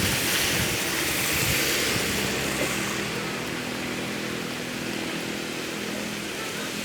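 Heavy rain pouring down as a steady hiss, easing slightly after a few seconds. From about two seconds in, a motor vehicle's engine drones steadily underneath it.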